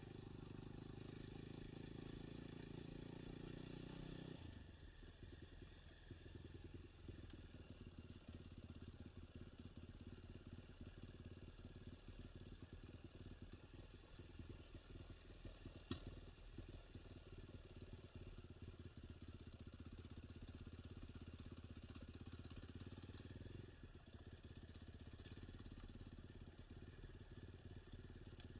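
Enduro motorcycle engine running, a steady note that drops to a lower, rougher rumble about four seconds in. A single sharp click about halfway through.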